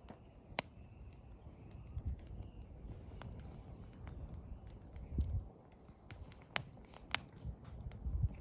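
Wood fire burning, crackling with sharp, irregular pops over a low steady rustle. Faint bird calls come in the first couple of seconds.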